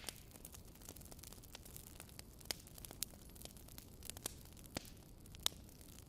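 Wood fire burning in a fireplace: a low steady hiss with sharp irregular crackles and pops from the burning logs, the loudest about two and a half, three, just under five and five and a half seconds in.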